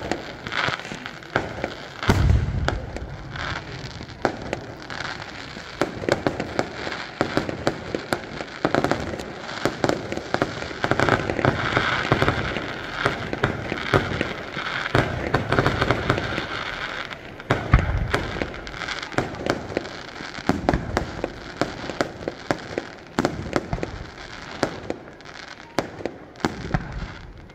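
Fireworks display: aerial shells bursting with sharp bangs and dense crackling and popping, with deep booms about two seconds in, midway through and near the end.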